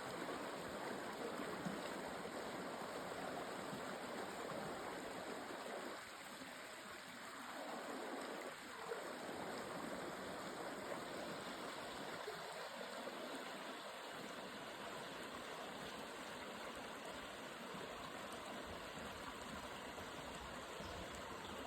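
Jungle river stream flowing over rocks: a steady rush of water with small gurgles.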